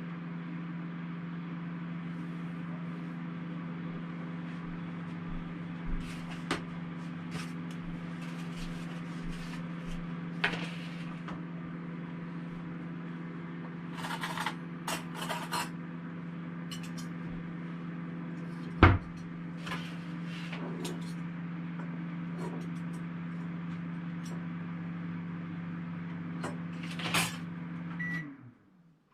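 Microwave oven running with a steady hum while heating a ready meal, with scattered light clicks and one sharper knock about two-thirds of the way through. Near the end the hum stops and a short beep sounds.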